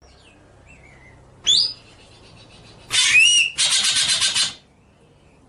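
Songbird calls: a quick rising whistled note, then about three seconds in a loud harsh call running straight into a buzzy, rattling trill about a second long, and the same rising whistle again near the end.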